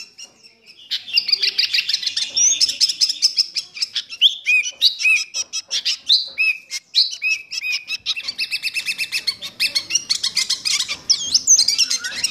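Bird song: a rapid run of short, high chirps and trills mixed with curved whistled notes, starting after a brief lull about a second in and going on without a break.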